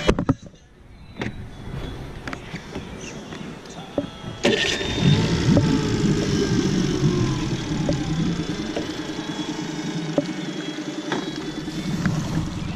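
A boat's outboard motor starts about four and a half seconds in, then runs steadily.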